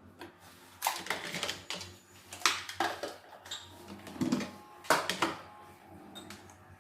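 Scattered sharp clicks and knocks of a plastic electric kettle and its parts being handled, in a few small clusters over several seconds.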